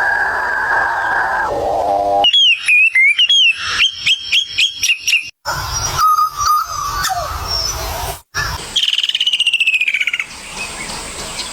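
Birds calling and chirping in a series of short spliced clips: warbling, pitch-sliding whistled notes, then a quick falling trill, each clip cut off abruptly.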